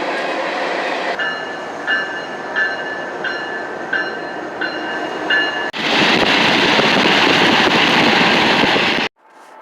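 Rumble of a passing train, with a bell ringing about one and a half times a second for several seconds. Then the noise jumps to a louder, steady rush, and cuts off abruptly near the end.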